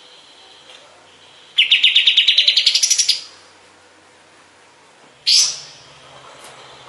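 Kapas tembak songbird singing: a fast trill of about fifteen notes that rises in pitch and speeds up, lasting about a second and a half, then one sharp, loud note that sweeps down in pitch about five seconds in.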